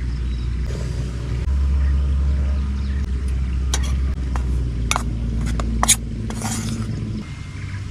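Steady low rumble with a handful of sharp clinks of dishes and utensils being handled, bunched in the middle, and a short hiss just after them.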